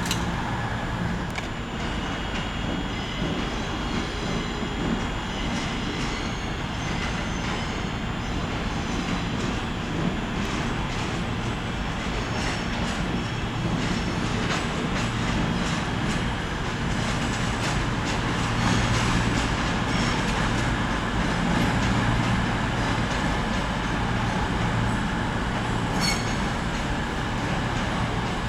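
A Class 220 Voyager diesel multiple unit running in the station, its underfloor diesel engines giving a steady hum that grows louder about two-thirds of the way through, with a few clicks and faint high squeal from the wheels on the rails.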